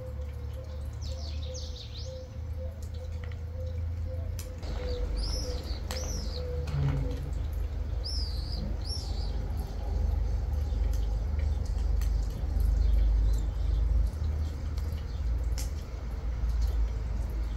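Small birds giving short chirps, a few times, in pairs about five and eight seconds in, over a steady low rumble. A faint steady hum runs underneath for the first several seconds and then fades out.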